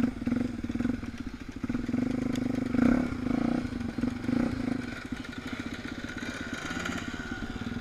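Suzuki DR350's single-cylinder four-stroke engine running under way, picked up by the bike's onboard camera, getting louder for a moment about two to three seconds in.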